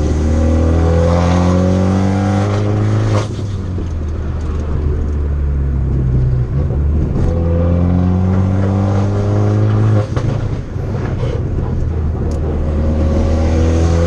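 Tuned Fiat 500 Abarth's turbocharged four-cylinder pulling hard, its note climbing steadily three times. It drops abruptly as the throttle closes, about three seconds in and again about ten seconds in, with sharp pops and crackles from the exhaust at those lifts.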